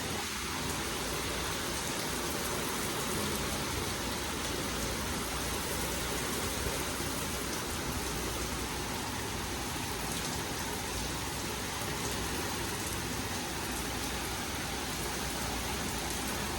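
Steady rain falling in a passing thunderstorm: an even, unbroken hiss of rain on surfaces.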